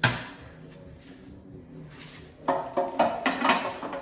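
Metal clanking: one sharp clank at the start that rings briefly, then a quick run of rattling, ringing clanks about two and a half seconds in, as metal parts or tools are handled on a work surface.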